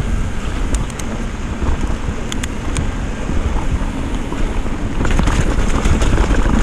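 Wind buffeting the microphone and a rough rumble of a downhill mountain bike running over a wet trail, with scattered sharp clicks and rattles from the bike. It gets a little louder after about five seconds.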